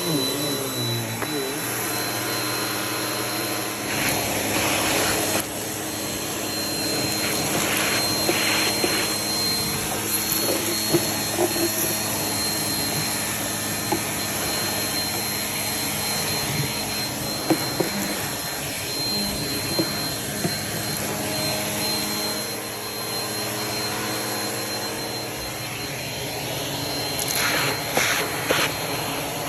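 Household vacuum cleaner running steadily, its motor whine and suction airflow continuous, with a few brief rattles and crackles now and then.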